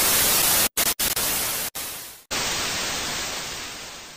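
Loud, even static hiss, like a TV-static transition effect. It breaks off abruptly several times around the first and second seconds, then fades away.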